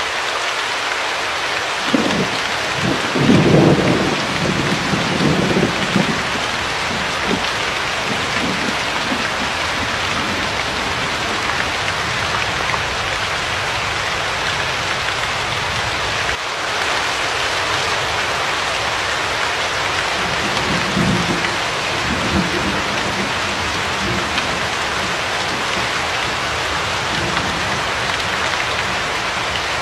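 Steady, even hiss of rain. Low rumbling swells up twice, from about two seconds in and again around twenty seconds in.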